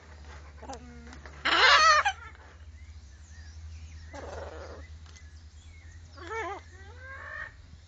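Parrots calling: a loud, harsh squawk about a second and a half in, a raspy call near the middle, and warbling calls that waver in pitch near the end. A steady low hum runs underneath.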